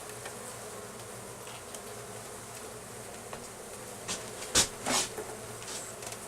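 Honeybee colony buzzing steadily as the hive is opened and its frames are moved. About four seconds in come a few sharp knocks, the loudest of them a single hard knock.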